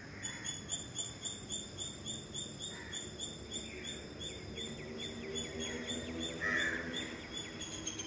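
Birds chirping in a quick, even series of short high notes, about three a second, with a few louder, lower calls, the loudest about six and a half seconds in, over low background noise.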